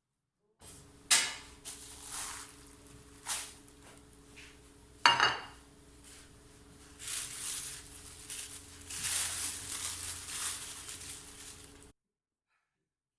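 Kitchen clatter of dishes and utensils: a few sharp clinks, the loudest about five seconds in, then stretches of scraping and rustling, over a steady low hum. It cuts in and out abruptly.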